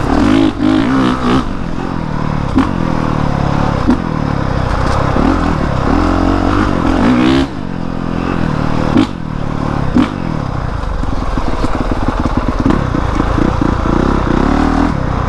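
Honda CRF450R 450cc single-cylinder four-stroke dirt bike engine running on a trail ride, its pitch rising and falling with the throttle. A few sharp knocks and clatters are heard along the way.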